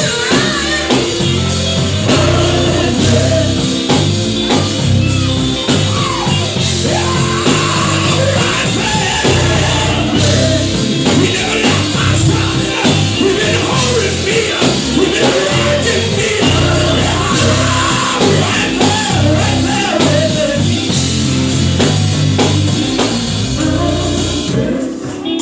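Gospel group singing live over a full band, with a strong bass line and a lead voice.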